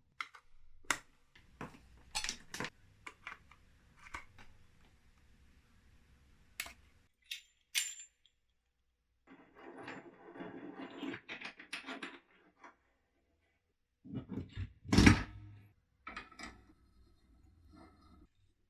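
Handling noise from a microphone being connected and a boom arm being mounted: scattered clicks, knocks and small metallic clatters. A rustling, clattering stretch comes about ten seconds in, and the loudest knock about fifteen seconds in.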